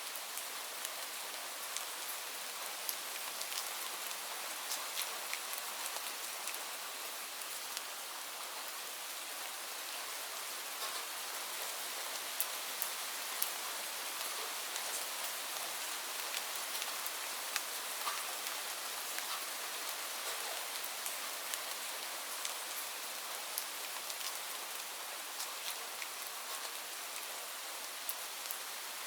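Steady rainfall: an even hiss with individual drops ticking sharply here and there.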